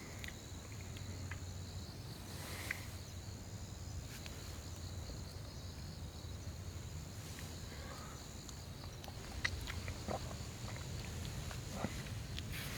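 Insects calling steadily in two high, even tones, with scattered small clicks and knocks over the top.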